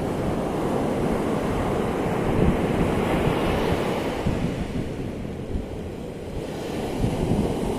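Ocean waves breaking and washing on the shore, the surf swelling about a third of the way in and easing off before building again near the end, with a low rumble of wind on the microphone.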